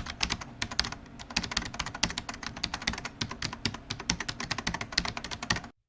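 Rapid, irregular clicks of typing on a computer keyboard, several keystrokes a second, stopping abruptly near the end.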